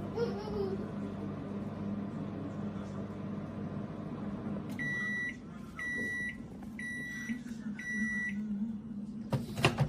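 Samsung MS23K3513AK solo microwave oven running with a steady low hum. It then gives four beeps about a second apart, the end-of-cooking signal, and a sharp click follows near the end.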